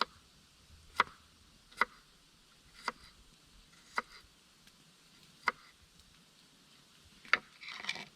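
Wood being chopped or split: seven sharp knocks at uneven intervals about a second apart, followed by a short rustle near the end.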